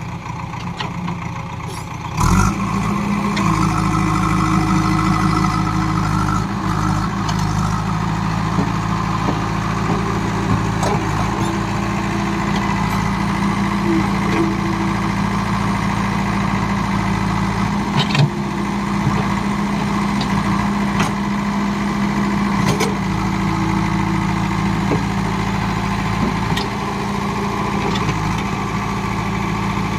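Heavy diesel engine running steadily at a low, even pitch. It jumps in loudness about two seconds in, with a few sharp knocks later.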